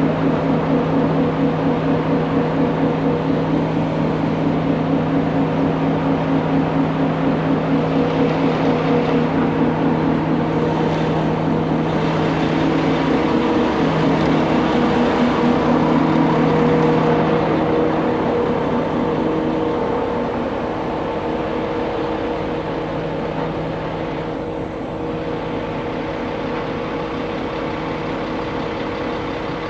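Heavy truck engine running steadily. About twelve seconds in it picks up and runs louder for several seconds, then eases back to a steady idle.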